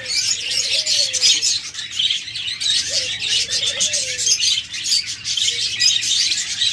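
A large flock of budgerigars chattering and chirping without a break. Underneath, two low dove coos sound, one about a second in and another about three seconds in.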